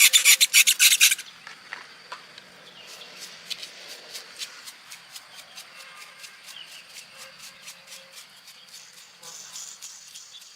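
Rapid rasping strokes of a hand tool working a part, about eight a second, that stop about a second in. Faint regular ticking follows.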